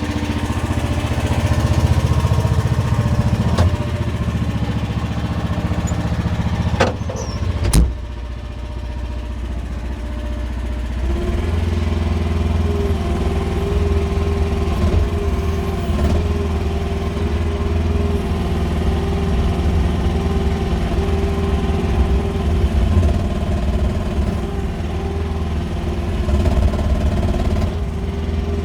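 QH13R mini excavator's engine running steadily, with two sharp knocks about seven to eight seconds in. About eleven seconds in the engine note gets louder and holds a steady higher tone as the machine works.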